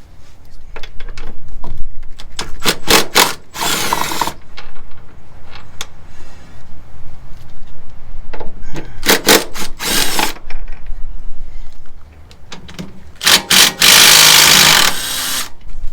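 Power tool running in several short bursts, the longest about two seconds near the end.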